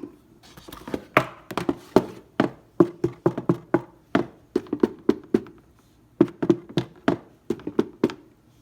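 Quick, irregular runs of sharp taps and knocks on a hollow plastic welding helmet shell, several a second, with a short pause about two-thirds of the way through.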